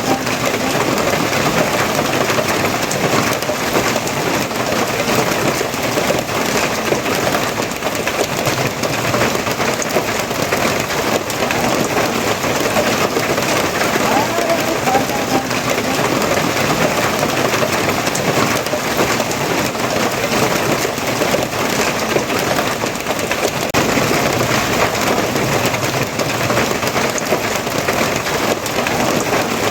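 Steady, heavy rain falling and pattering on surfaces, an even hiss that keeps up without a break.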